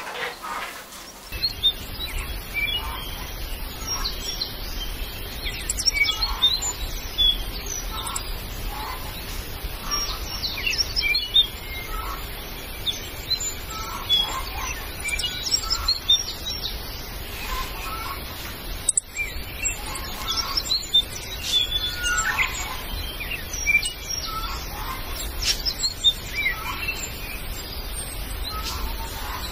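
Birds chirping: many short calls scattered throughout, over a low steady rumble.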